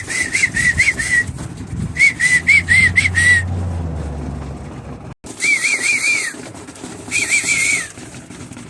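A high warbling whistle in four short phrases of quick up-and-down notes, each phrase about a second long, with a low rumble under the second phrase.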